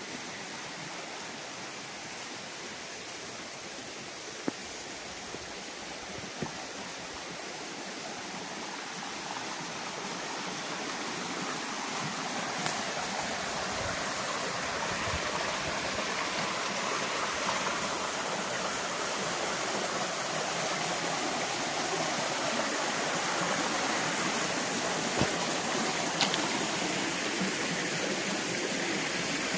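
Rushing water of the Rufabgo, a mountain stream with waterfalls: a steady rush that grows gradually louder, with a few short knocks.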